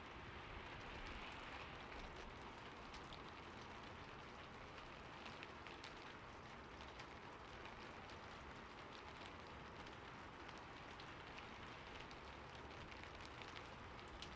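Rain falling steadily on a roof: a soft, even hiss dotted with many small drop ticks.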